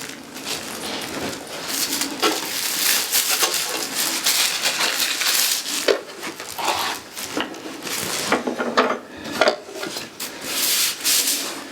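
Rubbing and rustling of telescope packaging being handled and pulled about, with a few light knocks.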